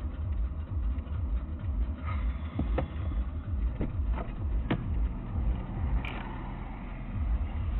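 Low rumble of a car driving, heard from inside, with a few short clicks about halfway through.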